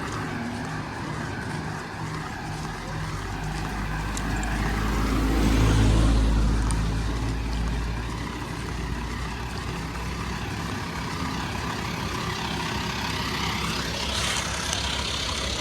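Engine of a passing motor vehicle, a low hum that swells to its loudest about six seconds in and fades away by about eight seconds.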